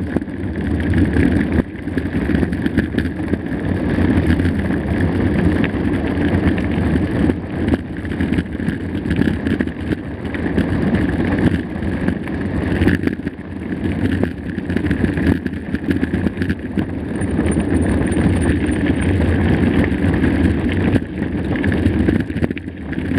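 Mountain bike rolling over a rough, stony trail: a steady rumble of tyres and rattling frame with many small knocks, mixed with wind buffeting the microphone.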